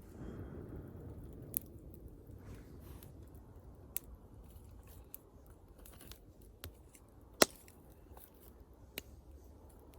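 Wood bonfire crackling: irregular sharp pops and snaps, about six in all, the loudest about seven seconds in, over a low steady rumble of burning.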